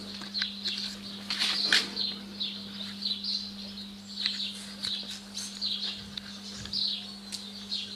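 Small birds chirping over and over, short high calls that dip in pitch, with a few sharp clicks and a steady low hum underneath.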